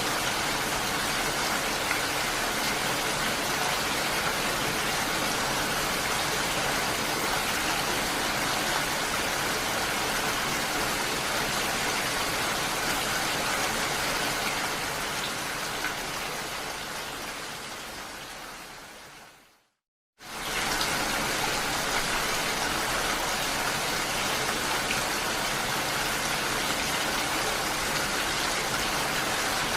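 Steady rain falling, an even hiss that fades away over several seconds about two-thirds of the way through, drops to silence for a moment, then comes back suddenly at full strength.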